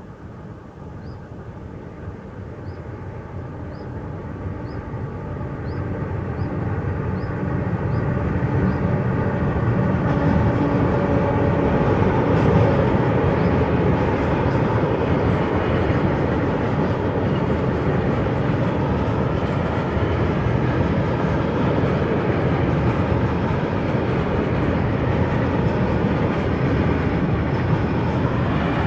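Freight train approaching and passing: a growing rumble as it nears, then the steady running noise of a long line of freight wagons rolling over the rails.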